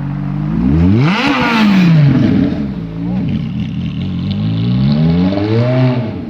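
Ferrari F430's 4.3-litre V8 revved from idle: a quick blip about a second in that falls straight back, then a slower climb that peaks near the end and drops back toward idle.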